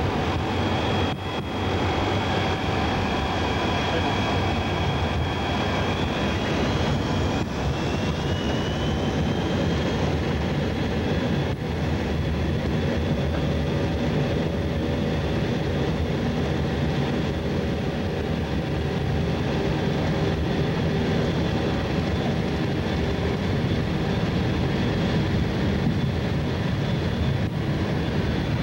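Boeing E-3D Sentry's four CFM56 turbofan engines running steadily: a constant jet rumble with high whines over it, one whine rising in pitch about seven to ten seconds in.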